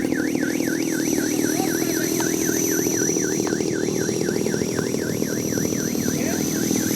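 Electric 450-size RC helicopter in flight: a steady rotor buzz with a high electric-motor whine. Over it runs a tone warbling up and down about three to four times a second, like an alarm.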